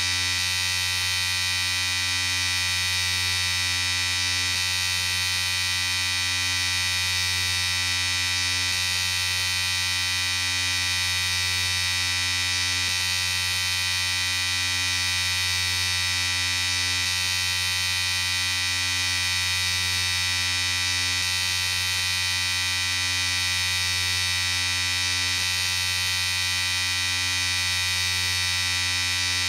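Electric shaver running with a steady buzz.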